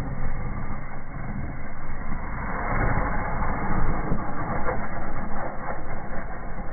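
Fire burning in a fireplace, a dense run of crackling that grows fuller about two and a half seconds in.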